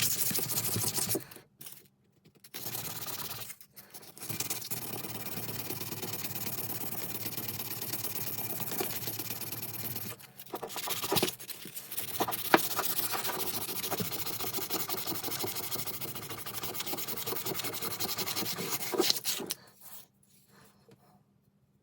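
A small electric power tool running against metal in long runs with three brief stops, cutting off shortly before the end.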